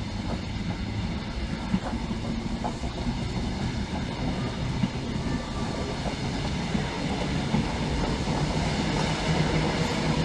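Class 90 electric locomotive-hauled passenger train pulling away from the platform, its coaches rolling past with a steady rumble and low hum that builds slightly near the end.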